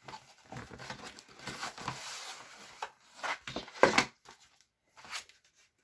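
Paper envelope being torn open and handled: rustling paper with a few sharper rips, the loudest about four seconds in.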